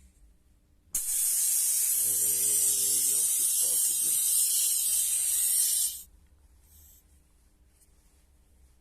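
Compressed air hissing out of the homemade compressor's hose for about five seconds, starting about a second in and cutting off suddenly.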